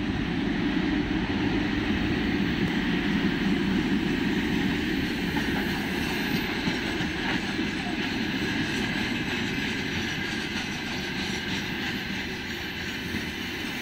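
VL11.8 two-section electric locomotive passing close by, then a coal freight train of open gondola wagons rolling past with a steady rumble of wheels on rail. It is loudest in the first few seconds as the locomotive's rear section goes by, and eases slightly as the wagons follow.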